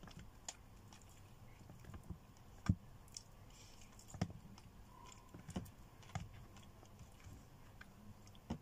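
Close-up eating sounds of chicken and rice: faint chewing with irregular wet smacks and clicks, the sharpest a little under three seconds in.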